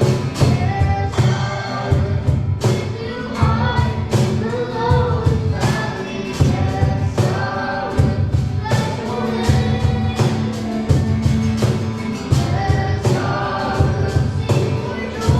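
Live worship music: a band with drums and bass keeping a steady beat while a group of voices sings.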